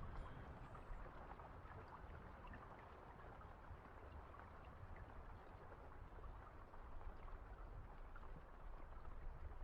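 Faint, steady rain ambience: a soft wash of rain with scattered small droplet ticks and a low rumble underneath.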